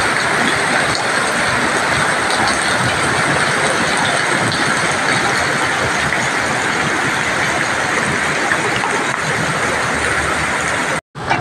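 Heavy rain pouring down in a steady, even roar, briefly cut off near the end.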